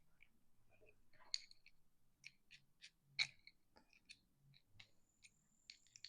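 Faint, scattered metallic clicks and taps of an adjustable crescent wrench working a fitting tight, with two louder clicks about one and three seconds in.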